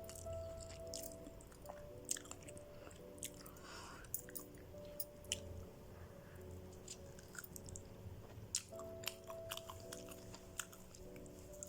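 Faint, irregular chewing and mouth clicks of a person eating soft, saucy chicken.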